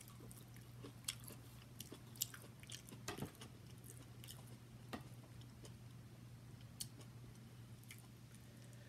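Faint chewing and biting of corn on the cob: scattered small irregular clicks and crunches over a steady low hum.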